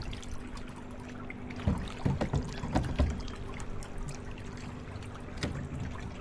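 Water trickling and splashing around a kayak, with scattered light knocks and taps against the hull.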